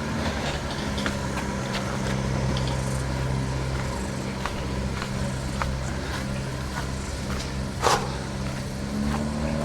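An engine running steadily at a low, even pitch, with scattered light clicks and one sharper clack about eight seconds in.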